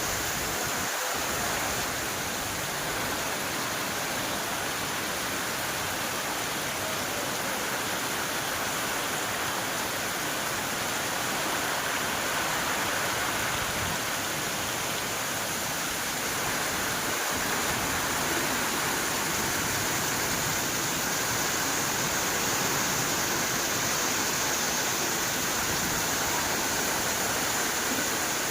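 Steady heavy rain falling, an even hiss with no let-up.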